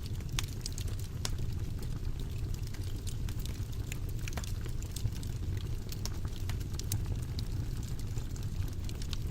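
Wood fire burning in a fireplace: a steady low rumble of flames with frequent small irregular crackles and pops.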